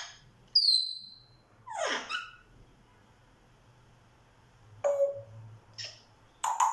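African grey parrot whistling and making short calls: a clear high whistle about half a second in, a quick rising call near two seconds, then a few short squeaks and clicks around five seconds and again near the end.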